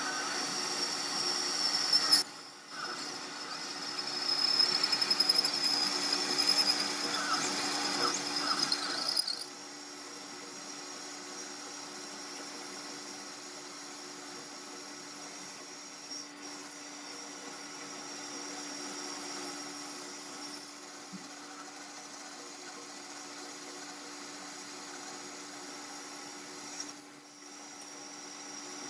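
Workshop power tools running, in several cut-together stretches. A louder, higher-pitched, wavering tool sound runs from about four to nine seconds in, then gives way suddenly to a steadier, quieter machine hum.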